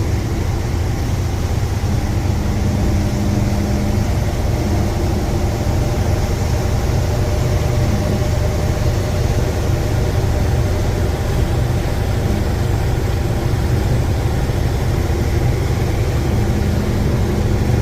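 Steady low drone of a passenger river boat's engines heard from on board while under way, with a constant hum over the rumble and a slightly higher tone that comes in briefly near the start and again near the end.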